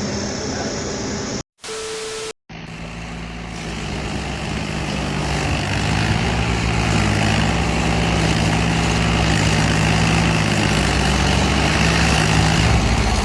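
A vehicle engine running with a steady low hum that grows louder over several seconds, after two brief cuts in the audio near the start.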